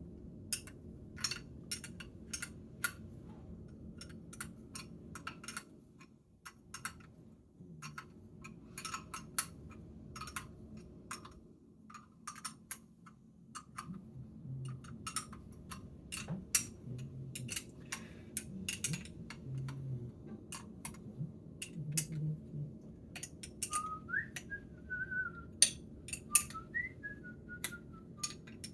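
Small metal parts of a Caterpillar 3406B fuel transfer pump clicking and clinking as it is put back together by hand, in scattered light taps. Near the end, two short whistled phrases that rise and fall.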